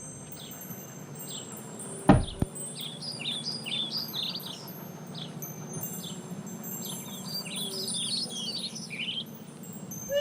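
Birds chirping in clusters of short high notes over a low steady hum, with a single loud knock about two seconds in.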